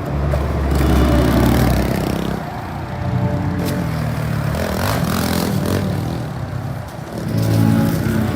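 Small pit bike engine revving up and down as it is ridden, its pitch rising and falling.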